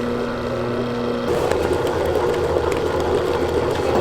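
Steady machine hum with a constant drone. About a second in, one of its tones stops and the running sound gets louder and rougher.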